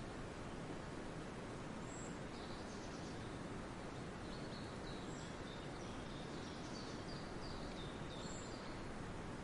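Forest ambience: a steady background hiss with faint small songbird chirps, a few short high notes scattered through and a run of brief twittering notes from about halfway on.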